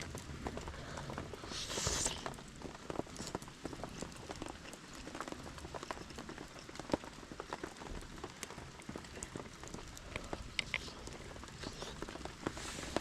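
Steady rain falling, with many scattered sharp drips and clicks, and a short hissing burst about two seconds in.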